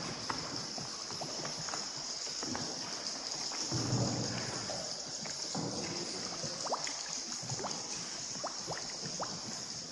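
Paddle boat gliding through a river cave, with scattered water drips and paddle splashes making short chirping plinks. A steady high-pitched hiss runs underneath.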